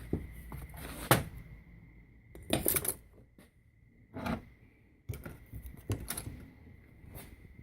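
Metal-and-rubber engine mounts being handled and moved on a hard surface: a series of irregular clicks and knocks, several seconds apart.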